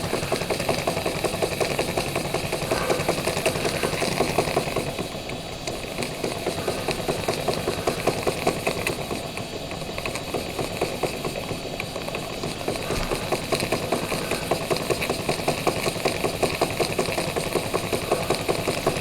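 Small scratch-built oscillating steam engine running on live steam at a good lick, a fast, even chuffing of exhaust beats over a steady hiss of steam.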